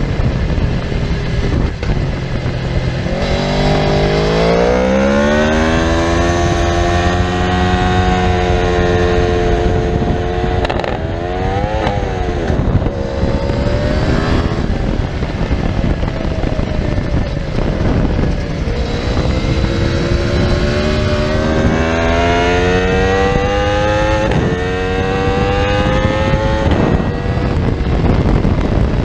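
Aprilia RSV4's V4 engine under hard acceleration on a racetrack, with two long pulls where the pitch climbs steadily, interrupted by quick gear changes, and sharp blips in between. A steady rush of wind and road noise runs under it.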